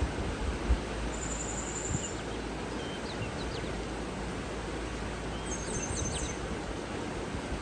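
Steady rush of flowing water with songbirds calling over it: a thin high whistle about a second in, and a quick run of short high chirps past the middle. A few low bumps near the start.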